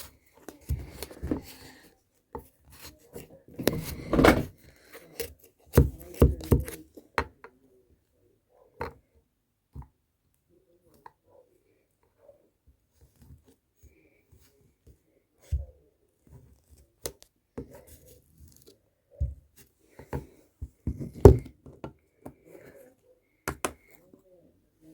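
Flattened, packed sand being cut and crumbled: irregular crisp crunches and scrapes, densest and loudest in the first few seconds and again about three-quarters of the way through, with sparse small crackles between.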